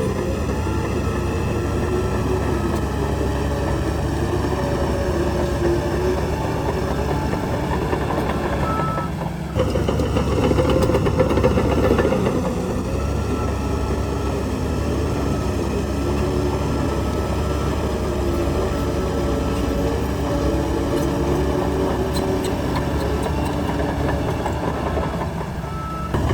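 Heavy diesel earthmoving machinery running steadily. About nine and a half seconds in the sound breaks off and picks up again a little louder.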